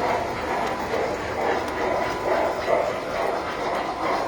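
Tinplate model trains running on the layout track: a steady rolling rumble with faint clicks recurring every second or so.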